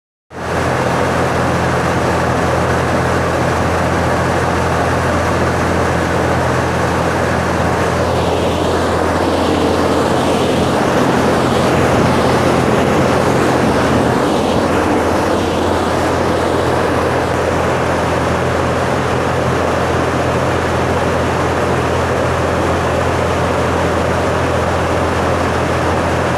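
50-inch centrifugal exhaust fan driven by a YSF 90-4 single-phase induction motor, running steadily at speed: a loud, even rush of air over a constant low hum.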